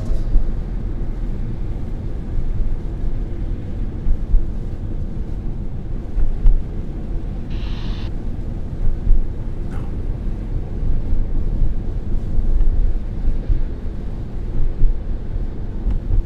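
Car-interior ambience: a steady low rumble, with a brief hiss about eight seconds in.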